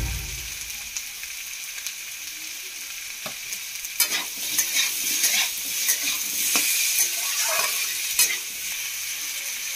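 Potatoes, peas and green chillies sizzling in oil in a steel kadai, with a metal spatula scraping and stirring them at an irregular pace from about four seconds in.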